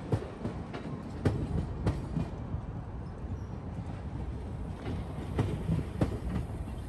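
Passenger train cars, including vintage private cars, rolling past with a steady low rumble and irregular clicks and clunks as their wheels cross rail joints and switches in the station throat.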